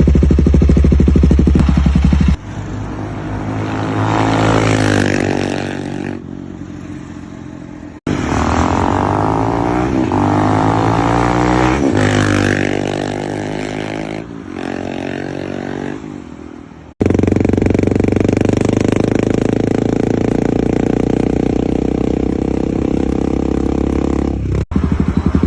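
Royal Enfield Guerrilla 450's single-cylinder engine through an aftermarket AEW exhaust, in several takes cut together: the motorcycle passes by with its pitch rising and then falling, alternating with stretches of steady, loud running close by.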